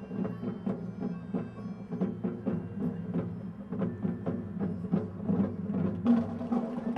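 Marching band playing: held wind chords over a steady run of percussion strikes, with the sound growing fuller near the end.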